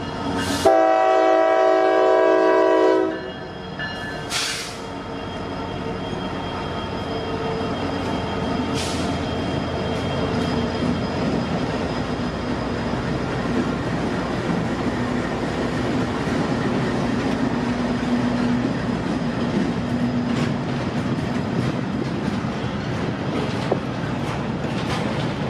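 A locomotive horn sounds one long blast of about two and a half seconds. A train then rolls past with a steady rumble and wheel clatter.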